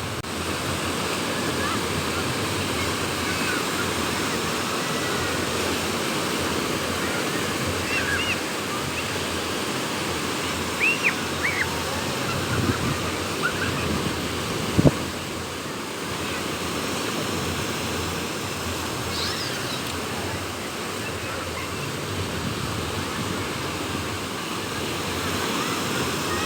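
Sea waves breaking on the beach with wind blowing, a steady rushing noise. A few short high-pitched chirps come through about 8 and 11 seconds in, and there is one sharp click about halfway through.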